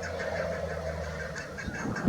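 Female chukar partridge calling: a fast run of short clucking notes, about five a second, over a steady low hum.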